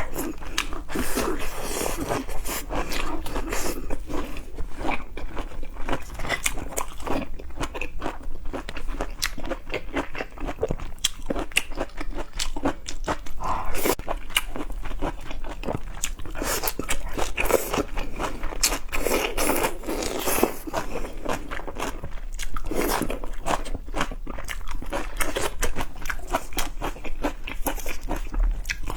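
A person chewing and biting food, with many sharp crunches and clicks coming thick and irregular throughout.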